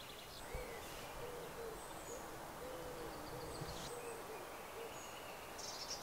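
A bird's low hooting call, a run of short repeated notes, faint against quiet woodland, with a few faint high chirps from small birds.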